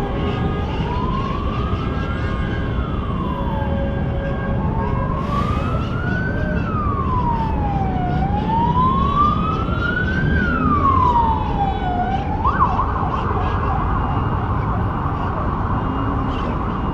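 Emergency vehicle siren in a slow wail, rising and falling about every four seconds, switching about three-quarters of the way through to a fast yelp. Steady street traffic noise runs underneath.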